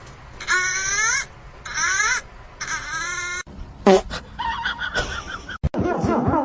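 A pet animal crying out in three drawn-out, wavering calls, then a short sharp cry about four seconds in; after an abrupt cut, quick repeated short calls.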